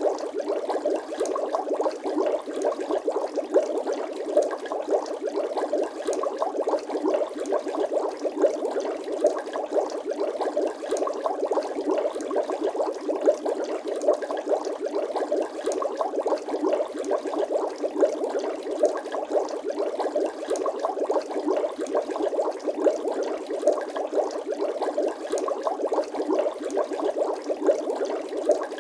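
Continuous bubbling sound effect: many small liquid bubble pops in quick, irregular succession, steady throughout.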